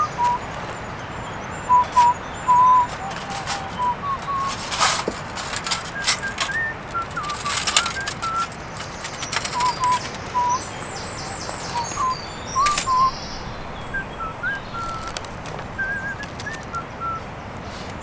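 A songbird singing a scattered series of short whistled notes, over sharp clicks and brief rustles of hand-handling as a folding metal wood stove is taken apart and the cloth beneath it is picked up.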